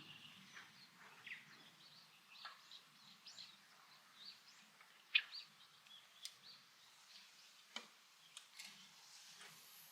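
Faint, scattered bird chirps, short and irregular, with a few sharp clicks among them.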